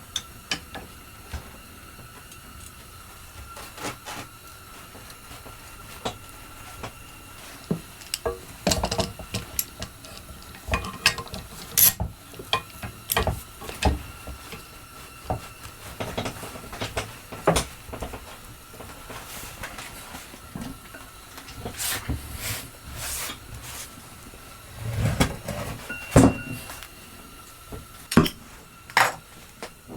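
Scattered metal clanks and knocks of steel plate and tools being handled, at irregular moments, over a faint steady hiss.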